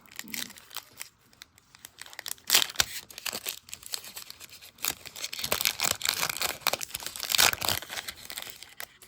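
Foil trading-card pack wrapper crinkling and tearing, in irregular rustles with two louder rips.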